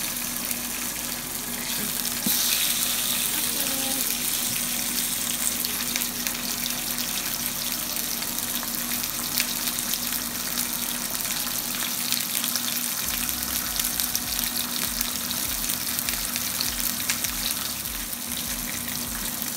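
Salmon fillets sizzling and crackling in hot oil in a nonstick frying pan, a steady hiss full of small pops that gets louder about two seconds in.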